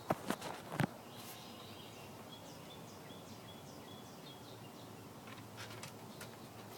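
Outdoor ambience with faint, short bird chirps repeated in a series, plus three sharp clicks or knocks within the first second.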